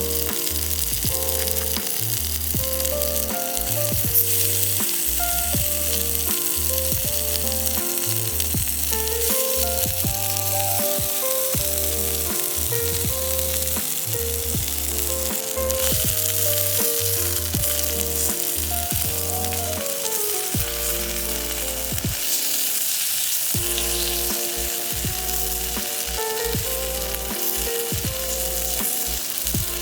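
Food sizzling as it fries in a pan, a steady hiss throughout, under background music with a plucked melody and a deep bass line.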